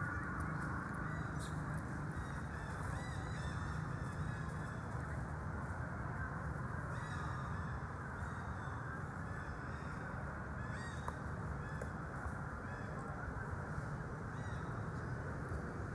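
Short high-pitched animal calls repeated every few seconds over a steady background rumble.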